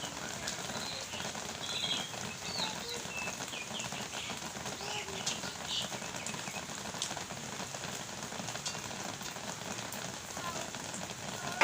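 Steady rain falling, a continuous even patter, with a few short high chirps in the first half and a sharp knock at the very end.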